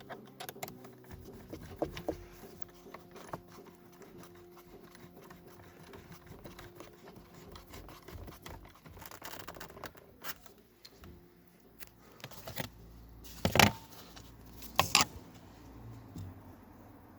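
Hands working on the headlight adjustment switch and its plastic dashboard trim: scattered small clicks, scrapes and rustling, with two louder sharp clicks near the end.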